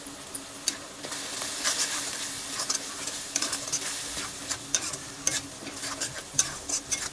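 Onion and spice masala sizzling in hot oil in a metal kadhai while a metal spatula stirs it, scraping and clicking irregularly against the pan. The ground spices are being fried into the onion base for the chole gravy.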